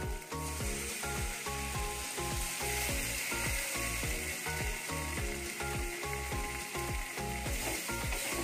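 Spicy fish curry gravy sizzling in a kadhai, the sizzle growing louder about three seconds in, under background music with a steady beat and melody.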